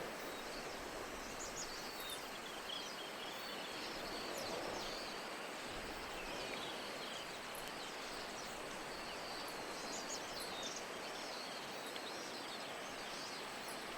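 Steady hiss of falling rain, with small birds giving short high chirps again and again throughout.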